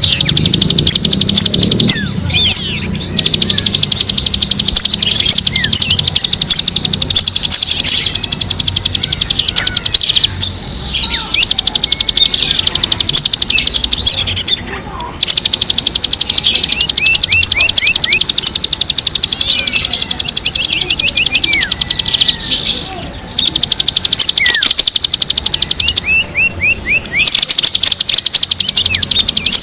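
Recorded songbird chorus used as a bird caller. One bird keeps up a very fast, high, continuous trill that stops briefly about five times, while other birds put in short, quick downward-sweeping chirps.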